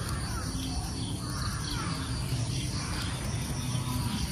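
Faint bird calls over steady outdoor background noise.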